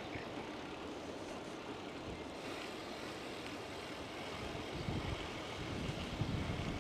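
Wind blowing on the microphone of a camera riding on a moving bicycle: a steady rushing noise. The low buffeting grows stronger about two-thirds of the way through.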